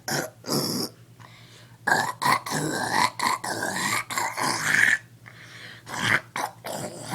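A boy making weird noises with his voice and throat in bursts, not words: a short burst, a pause, then a long run of strained, wavering-pitched vocal sounds, another pause, and a final burst near the end.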